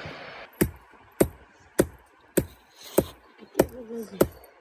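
Steady rhythmic chopping, one sharp blow about every 0.6 seconds, seven in all, after a steady hiss cuts off about half a second in. A short pitched call sounds between the last two blows.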